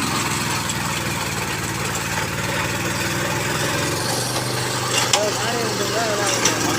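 Swaraj Code mini tractor's 12 hp petrol engine running steadily.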